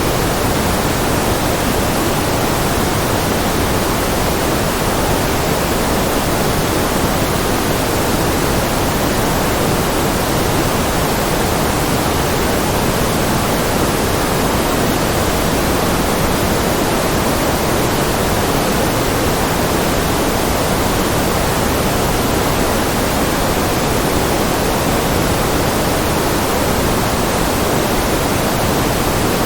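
Continuous generated white noise, an even, unchanging hiss with more weight in the lower middle than in the highs.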